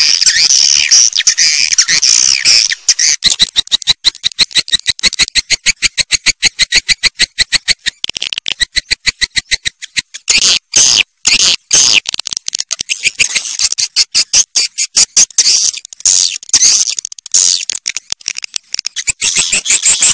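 Swiftlet twittering from a lure-call recording: fast trains of high, clicking chirps, several a second. The chirps run as an even rapid pulse in the middle and thicken into denser twittering near the end.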